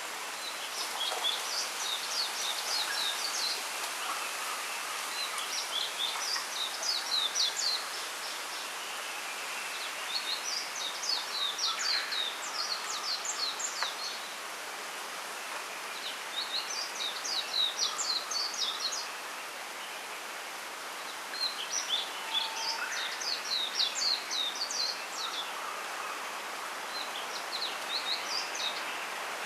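A small songbird singing in short bursts of rapid, high chirping notes, one phrase every five seconds or so, about six times. Under it runs a steady hiss of wind rustling the bamboo leaves.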